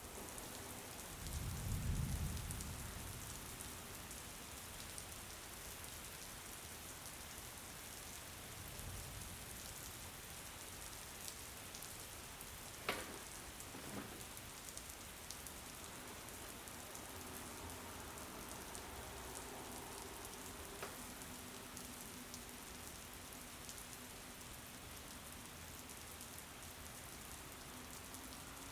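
Steady rain falling on a surface. About two seconds in there is a low rumble, and near the middle a single sharp click.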